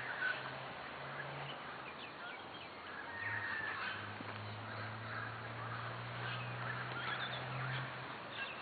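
Several wild birds calling and chirping, short overlapping calls, over a low steady hum that swells for several seconds in the middle.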